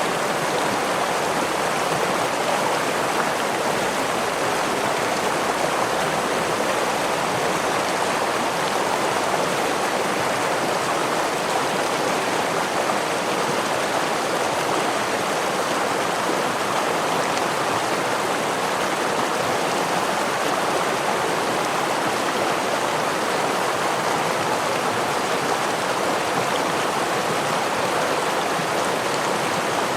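Stream water flowing over a small waterfall: a continuous, even rushing with no breaks.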